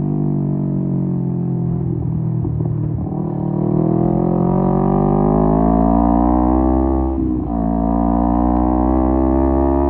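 Kawasaki Z250 parallel-twin engine through an aftermarket SeaPro muffler, pulling under acceleration. Its pitch climbs steadily for several seconds, dips sharply with an upshift about seven seconds in, then climbs again.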